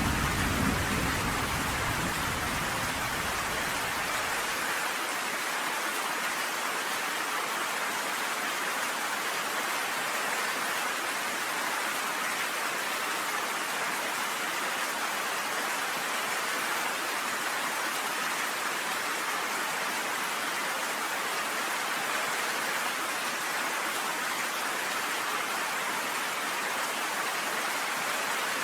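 Steady rain, an even hiss with no letup. A low rumble of thunder at the start dies away about four seconds in.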